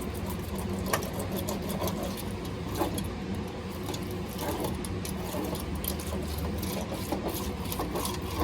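Faint irregular clicking and rubbing of a roller working epoxy into wet biaxial fiberglass, over a steady low machine hum.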